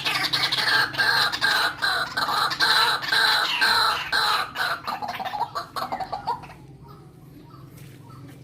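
White-breasted waterhen (ruak-ruak) calling: a loud, rapid run of repeated harsh notes that stops about six and a half seconds in, followed by a few faint short calls.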